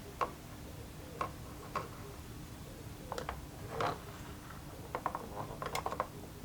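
Irregular clicks and taps of small metal parts being handled and fitted during carburetor work, a few single ones early and a quick cluster near the end, over a faint steady hum.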